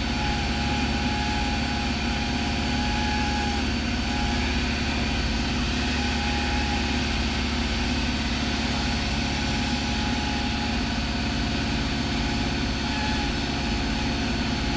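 Steady drone of a Cessna 172's piston engine and propeller in cruise, heard from inside the cabin.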